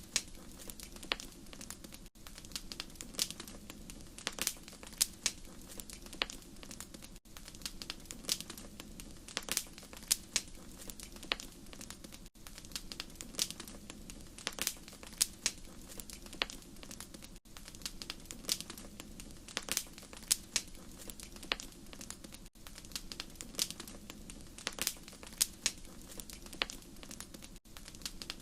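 Wood fire crackling steadily, with frequent irregular sharp pops and snaps over a low hiss. There is a brief dip in level about every five seconds, as from a looped recording.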